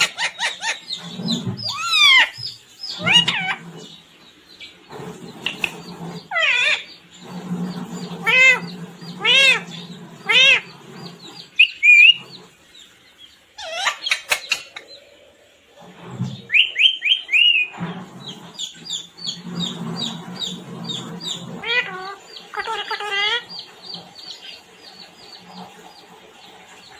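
Pet parrot calling: a string of squawks and whistles sliding up and down in pitch, with a rapid run of short chirps about two thirds of the way through.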